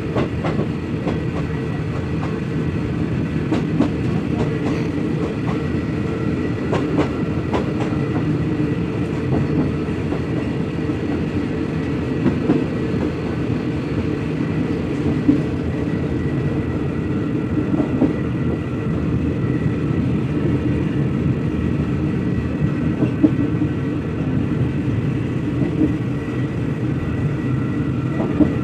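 Passenger train coaches rolling along the track, heard from an open window of a moving coach: a steady rumble of wheels on rail with a thin steady whine and occasional sharp clicks at the rail joints.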